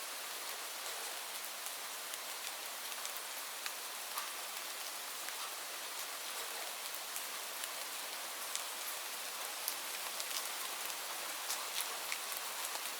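Steady rain falling, an even hiss with many distinct drops ticking on a surface throughout.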